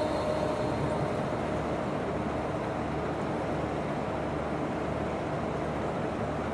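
Steady background hum and hiss of room noise, with no voice.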